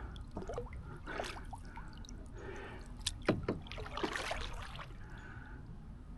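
Paddle strokes in the water beside a small solo canoe: repeated soft splashes and trickling drips. A few sharp knocks come about three seconds in.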